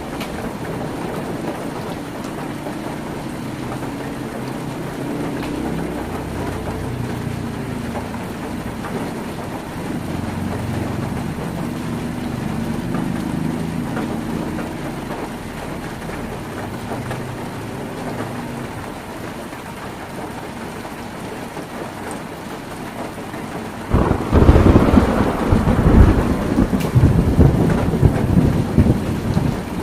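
Heavy rain drumming on a tin roof, with a low rumble of thunder under it through the first half. About three quarters of the way in, a sudden, much louder crash of rumbling and rattling breaks in and rolls on.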